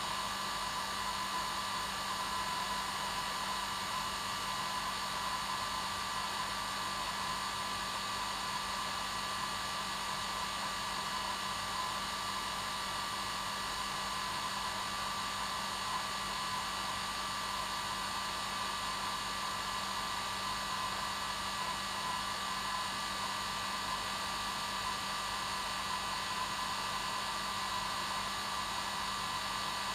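Hair dryer running steadily on its normal setting: an even rushing of air with a steady motor whine.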